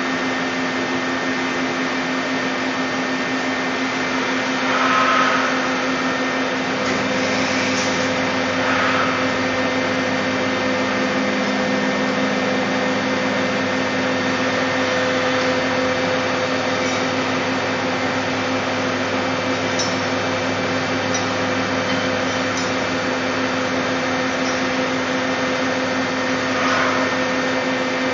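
Puma 350 CNC lathe running with a steady mechanical hum and whine, a deeper hum joining about seven seconds in. A few brief higher-pitched sounds rise above it, the loudest about five seconds in.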